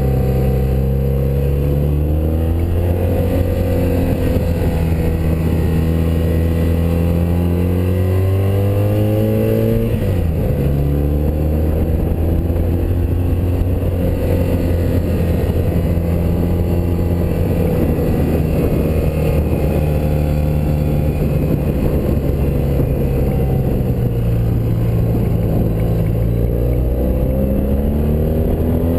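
1984 BMW R100RS's air-cooled flat-twin engine running under way, its pitch climbing slowly for several seconds, dropping sharply about ten seconds in at a gear change, then holding steady with small dips and climbing again near the end.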